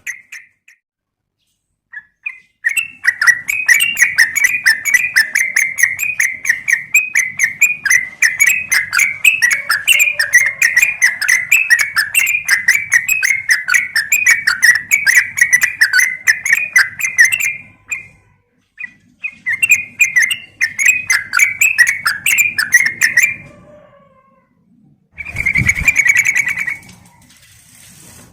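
Yellow-vented bulbul (trucukan) giving long, rapid chattering runs of notes, broken by two short pauses; this is the female call used as a lure to set a male singing. A shorter burst near the end carries a low thump.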